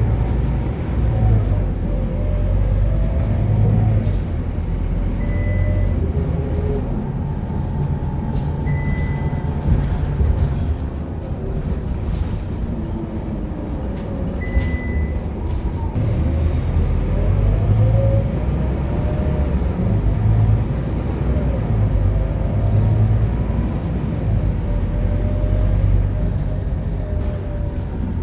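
Scania K230UB Euro 4 bus engine, heard from on board, driven hard: its pitch climbs through each gear and drops back at every automatic upshift. A short high beep sounds three times.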